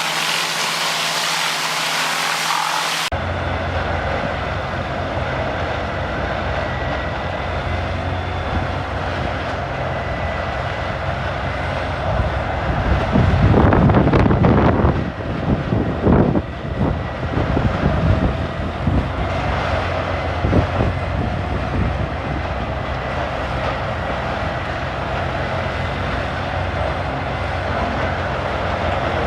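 A large wood chipper or grinder running steadily under load, with loud surges about halfway through as wood is fed in and broken up. A different hissing machine sound fills the first three seconds and stops abruptly.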